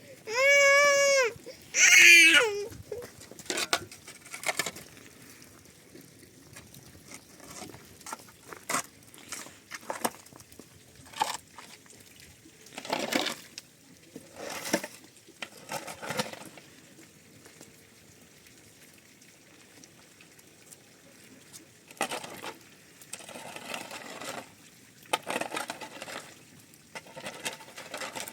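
A baby crying in two short wails about the first two seconds, then intermittent rustling, clicks and short scraping sounds of things being handled.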